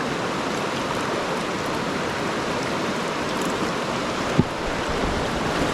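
Mountain stream flowing steadily, with one short thump about four and a half seconds in.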